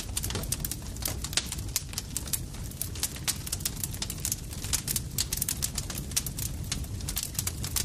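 Campfire crackling steadily: rapid, irregular sharp pops and snaps, several a second, over a low rumble of burning wood.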